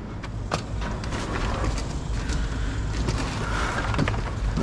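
Rummaging through junk inside a dumpster: scattered light knocks and clatters of objects being moved and picked out, over a steady low rumble.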